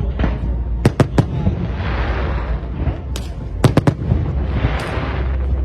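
Fireworks bursting: sharp bangs in quick clusters about a second in and again around three to four seconds in, with a swelling hiss between the bursts over a steady low rumble.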